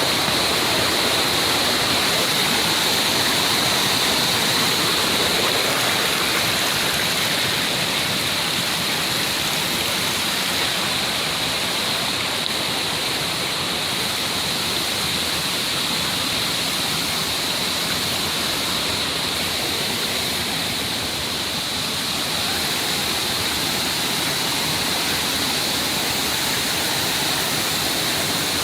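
Mountain stream water rushing and splashing over rocks in a steady, even flow.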